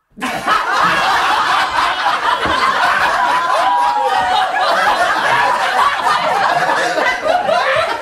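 A group of people laughing together, many voices overlapping. It starts abruptly out of silence just after the start and carries on at an even level.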